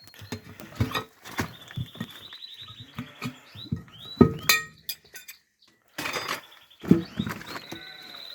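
Scattered clinks and knocks of hand tyre-changing tools working a tyre off its wheel rim, loudest about four and seven seconds in. A high, rapid trill sounds in the background.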